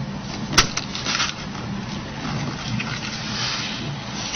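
A sharp click about half a second in, then faint crackling and rustling as an adhesive-backed flex foil is peeled off the Nokia 8800's metal frame, over a steady low hum.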